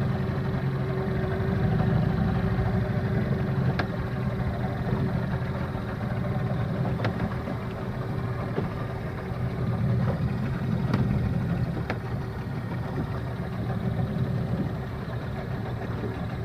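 Fishing boat's engine running steadily: a low, even drone with a constant hum above it, and a few faint knocks scattered through.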